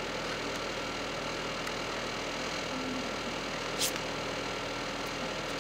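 Steady electrical hum and hiss of background noise, with one brief soft swish a little before the four-second mark.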